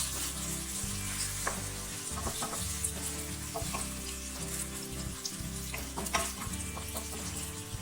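Food sizzling in a hot pan as it is stirred, with the spatula clicking and scraping against the pan now and then.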